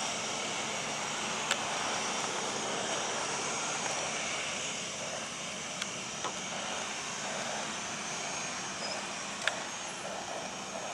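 Boeing 737-700's CFM56 turbofan engines running with a steady jet rush, with a few faint clicks.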